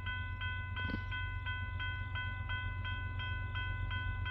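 Railroad grade-crossing warning bell ringing in even strokes, about three a second, as a train approaches. A steady low rumble runs beneath it.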